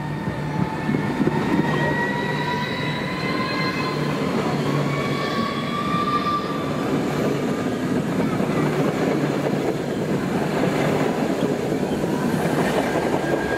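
Alstom Pendolino ED250 electric multiple unit pulling out and rolling past close by: a steady rumble of wheels and running gear as the cars go by, with faint high whining tones that rise slightly in pitch as it gathers speed.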